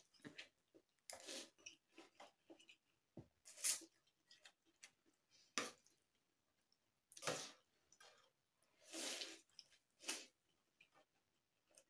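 Eating spicy instant noodles in broth from a spoon: scattered slurps and chewing, a dozen or so short bursts with gaps between.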